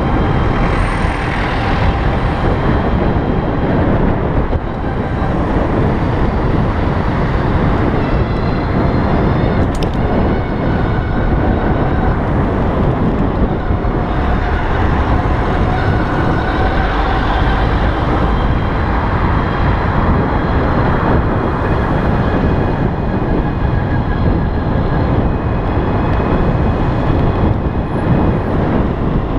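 Wind rushing over the microphone and road noise from a ride on an electric bike at speed, with faint whining tones that drift up and down.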